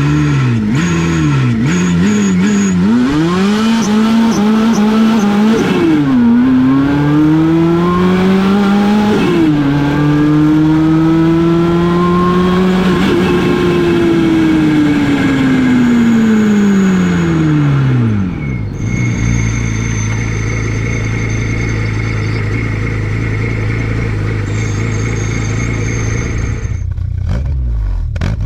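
Supercharged 2.0-litre 8-valve four-cylinder of a Golf Mk2 GTI with a G60 G-lader, heard from the intake side, free-revving: several quick blips of the throttle, then a longer climb held high for a few seconds and let fall back. About two-thirds through it settles to a steady idle, with a few sharp clicks near the end.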